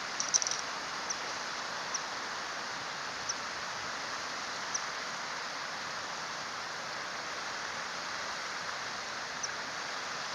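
Common kingfisher giving short, high, sharp call notes: a quick cluster near the start, then scattered single calls, over the steady rush of a stream.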